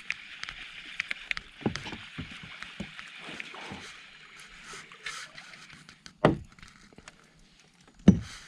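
Handling noise aboard a kayak: scattered light clicks and knocks over a steady high hiss, then two heavy knocks, the first about two-thirds of the way in and the second near the end.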